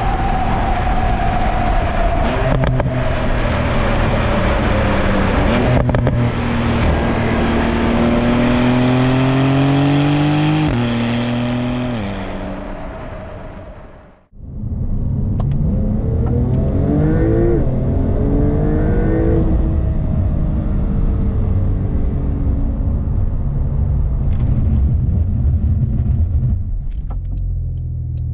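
Porsche 911 Turbo S's 3.8-litre twin-turbo flat-six accelerating hard, revs climbing and dropping at quick upshifts of the dual-clutch gearbox. It fades out about halfway through, then the engine comes back revving up and settles to steadier running.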